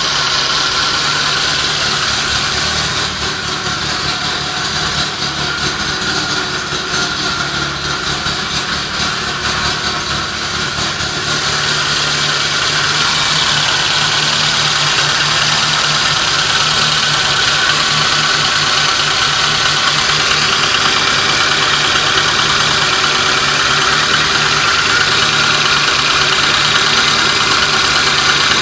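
VAZ (Lada) car engine fitted with a Nuzhdin 10.93 performance camshaft, running steadily at idle, a little louder partway through.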